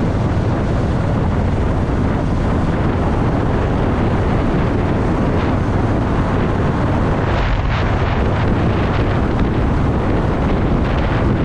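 Honda Shadow VT750's V-twin engine running steadily while riding, with wind noise on the microphone.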